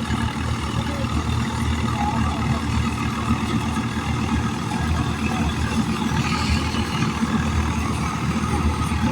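Tractor diesel engine running steadily with a low, even throb.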